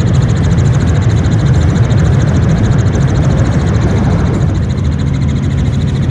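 Helicopter's engine and rotor noise, a loud steady drone.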